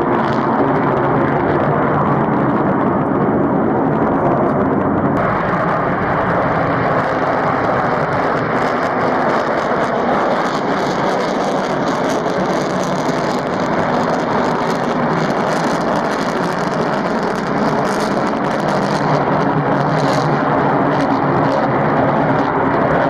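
Jet aircraft engines running, a loud steady noise with no rise or fall.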